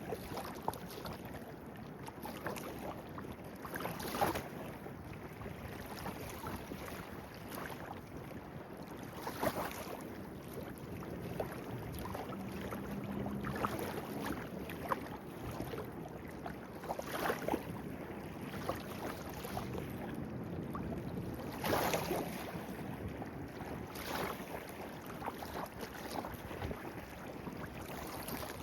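Small clear-water stream flowing steadily, with louder splashes every few seconds.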